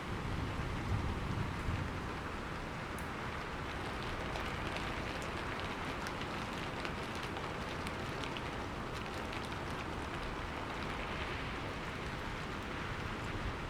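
Steady heavy rain falling, with many fine drop ticks in the hiss. A low rumble of thunder fades away over the first second or two.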